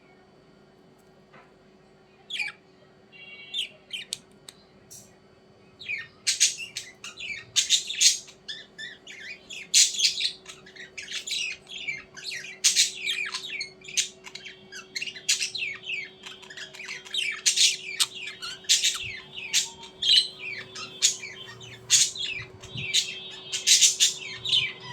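Birds chirping and squawking: a few scattered calls at first, then many short calls in quick succession from about six seconds in. A faint steady hum runs underneath.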